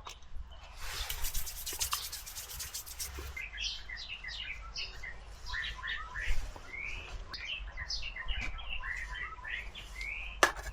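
A scratchy rubbing sound for about two and a half seconds, then birds chirping with many short, quick rising calls.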